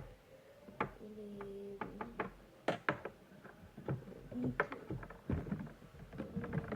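Packaging of a Funko Pop figure being handled: a string of irregular sharp clicks and crackles from the box and its plastic, the loudest about three seconds in, with a low voice murmuring in between.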